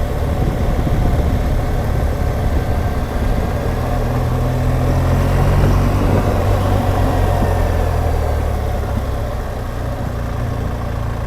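BMW R1200GS Adventure's flat-twin boxer engine running on the move, pulling harder from about four seconds in and easing off again near the end.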